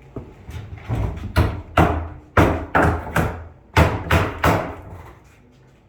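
Hammer blows on wood: about eight sharp strikes in quick, uneven succession, stopping about four and a half seconds in.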